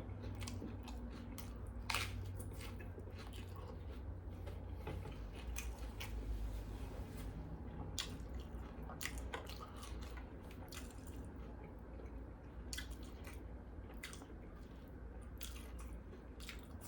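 Close-up chewing and biting of a BLT sandwich, with scattered short crunches and wet mouth sounds. A steady low hum sits underneath.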